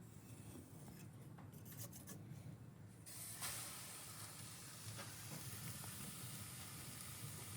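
Faint steady hiss that grows louder about three seconds in, with a few light clicks.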